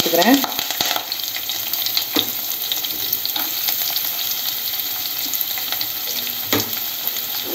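Chopped onions sizzling in hot oil as they are dropped into the pan, a steady hiss with two short knocks, about two seconds in and near the end.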